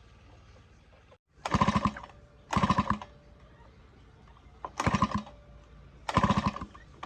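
Four short bursts of a power tool rattling rapidly, each about half a second long, starting about a second and a half in.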